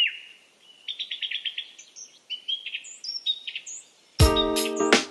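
Birds chirping: short downward-sweeping chirps, a quick run of notes and higher upward-sweeping calls. About four seconds in, music starts with keyboard chords and a low beat.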